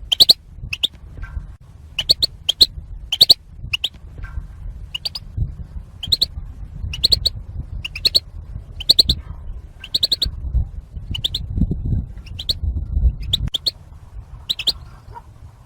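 European goldfinch calls: short, sharp chirps, each a quick rising note, repeated about once or twice a second. These are the excitement and contact calls that goldfinches use to call to one another.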